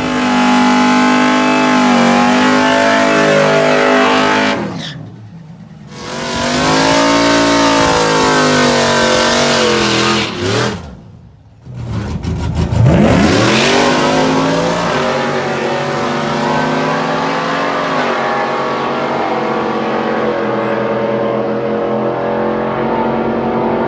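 Drag-racing truck engines revving hard, their pitch rising and falling, with two short breaks about five and eleven seconds in. In the second half an engine holds a steadier note that slowly grows duller.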